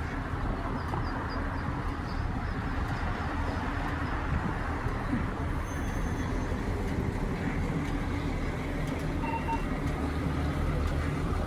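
A motor vehicle's engine running steadily with a low hum, amid street noise.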